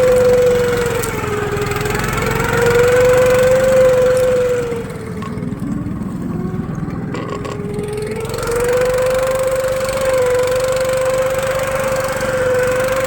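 Engine of a Tofalar Long motorized snow tow running under way at a steady, calm pace. Its pitch dips briefly about two seconds in, drops lower and quieter for about three seconds around the middle, then climbs back to its steady speed.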